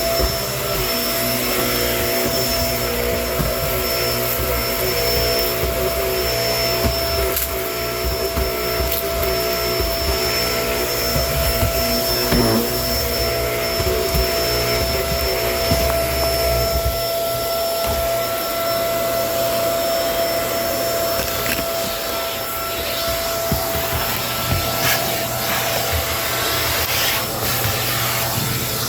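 Kenmore vacuum cleaner running with a steady motor whine. Its lower tones waver through the first half and then settle, and a few brief clicks sound along the way.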